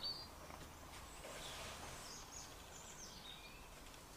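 Faint outdoor ambience with birds chirping: a few short, high chirps falling in pitch in the middle of the stretch.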